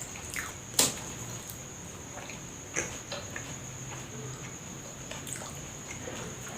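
Eating sounds: soft chewing and mouth noises with a sharp click about a second in and another near three seconds, over a steady faint high whine.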